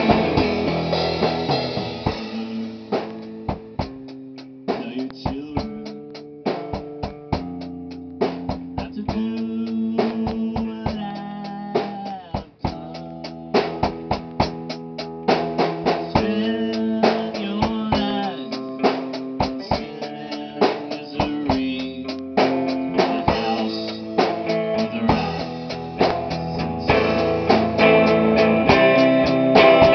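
Rock band playing in rehearsal: drum kit with steady hits under held guitar notes. The band drops to a quieter passage about two seconds in and builds back up louder near the end.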